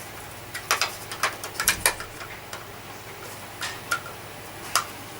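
Irregular light clicks and knocks, about eight in all, of small parts being handled and fitted into the headlamp area of a 1973 Hoover Junior vacuum cleaner.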